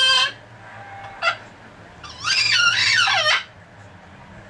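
Pet parrot calling: a short squawk just after the start, a brief chirp about a second in, then a longer warbling call with wavering pitch about two seconds in.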